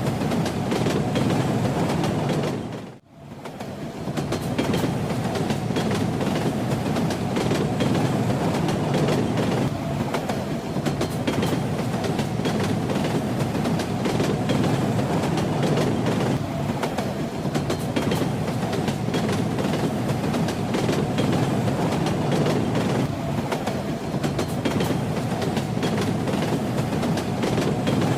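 Train running, its wheels clattering over the rail joints above a steady rumble. The sound briefly drops away about three seconds in and fades back up.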